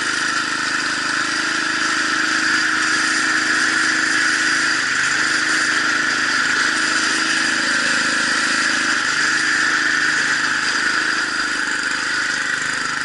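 Gas snowblower engine running steadily at a constant note.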